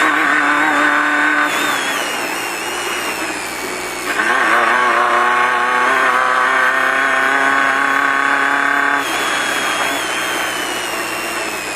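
Off-road race car's engine at high revs, held steady, then easing off about a second and a half in. The throttle comes back on at about four seconds and holds, and the engine eases off again near nine seconds.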